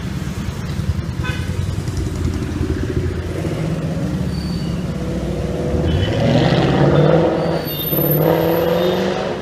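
Ford Mustang GT V8 through a Borla aftermarket exhaust, a loud, dense low rumble that revs up about six seconds in, eases off briefly, then rises again near the end.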